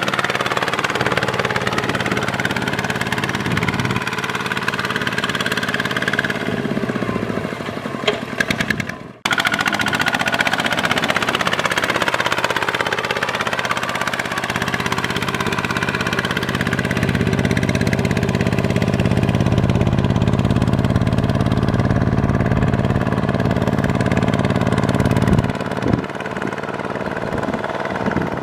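Kubota ZT 140 walk-behind tractor's single-cylinder diesel engine running steadily under plowing load, with a brief sudden break about nine seconds in.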